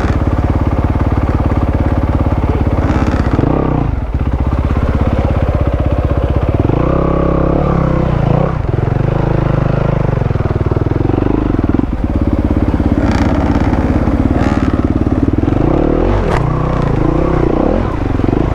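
Enduro dirt bike engine running under load, the revs rising and falling with the throttle. The engine note drops briefly about four seconds in and again near twelve seconds, as the throttle is rolled off.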